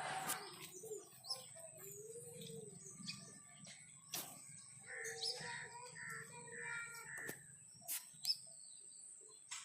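Birds chirping in short calls, over a steady high-pitched tone, with a few sharp clicks.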